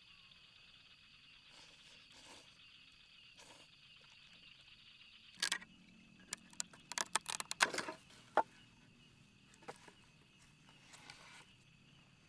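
A steady high-pitched insect drone, broken about five seconds in by a run of sharp clicks and knocks, with a few scattered clicks after.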